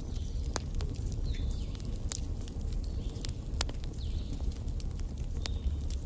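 Wood fire crackling in a fireplace: a steady low rumble of flames with sharp, irregular pops and cracks every second or so, and a few faint short whistles.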